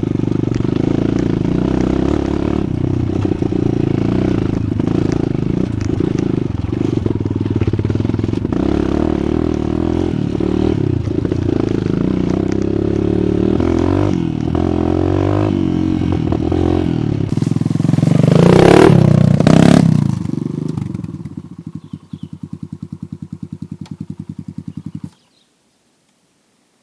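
Off-road dirt bike engine running while riding, with some clatter; about eighteen seconds in it revs up loudly and falls back, then it idles with an even rapid putter and cuts off abruptly near the end.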